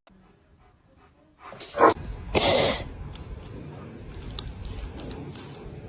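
A dog makes two short, unpitched, breathy sounds about two seconds in, then faint shuffling with small clicks.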